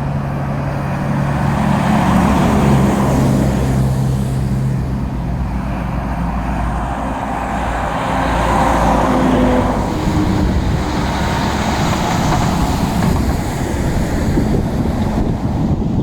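Heavy diesel truck engine running, with road and traffic noise; the engine tone is strongest in the first few seconds.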